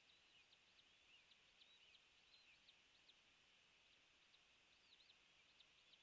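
Faint, quick high-pitched bird chirps, many short notes scattered through, over a steady high hiss.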